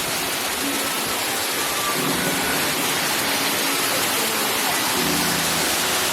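Steady, even rush of falling water from a rainforest waterfall and its spray.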